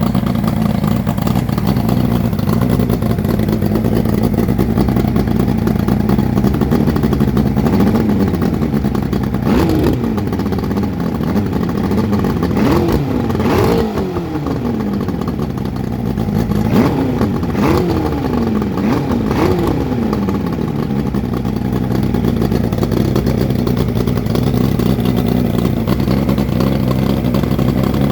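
Freshly rebuilt Evinrude 90 Ocean Pro two-stroke outboard running at a steady idle, blipped about six times in the middle so the pitch rises and falls quickly, then settling back to idle. Sounds pretty angry, running on new internals including a new crankshaft.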